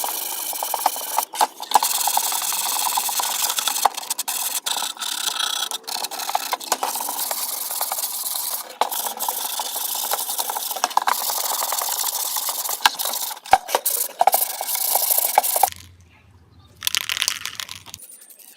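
Continuous scraping with many small clinks and knocks. It stops about sixteen seconds in, and a shorter burst of scraping follows near the end.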